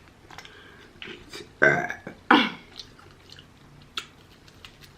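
A person burping twice in quick succession about a second and a half in, low and falling in pitch, between small mouth and eating clicks.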